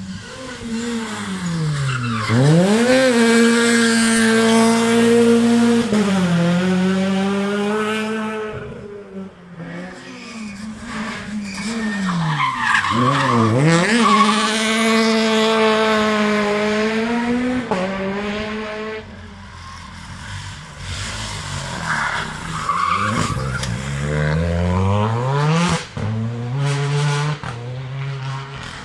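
Rally car engines at full throttle: the revs climb sharply, hold high for a few seconds, then fall away, three times over, with tyre squeal on the hard cornering.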